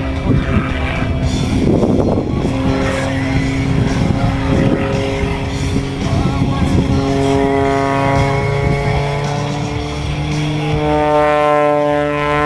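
Propeller airplane engine running at high power in an air-show fly-by; its pitch climbs in the second half as the plane manoeuvres.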